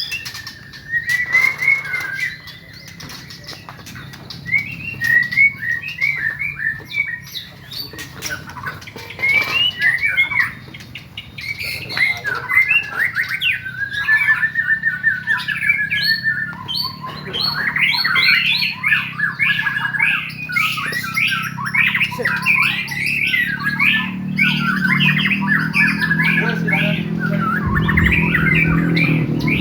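Several caged songbirds singing at once in a songbird contest, with rapid overlapping chirps, trills and squawks. Under them is a low rumble that grows louder near the end.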